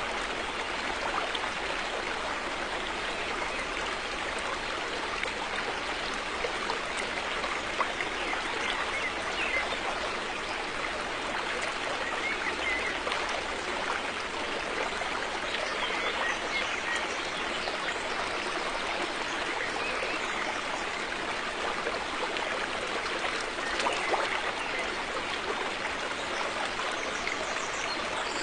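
River water flowing: a steady, unbroken rush and babble of running water.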